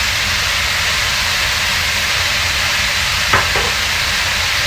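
String beans and squash sizzling in a frying pan, a steady hiss, with a single sharp click about three seconds in.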